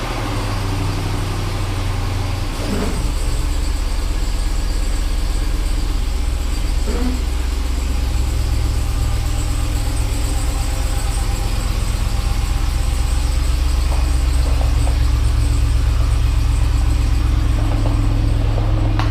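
A truck engine idling steadily with a deep, low hum, slightly louder from about two and a half seconds in.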